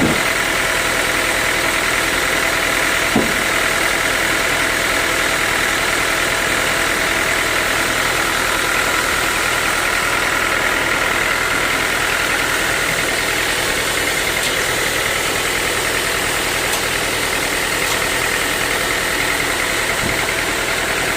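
Sawmill saw machinery running steadily, a constant drone with a high whine. There is a single short knock about three seconds in.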